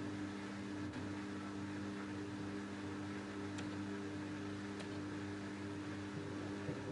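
LG F10A8HDS5 front-loading washing machine running with a steady hum made of several constant low tones, with a few faint ticks.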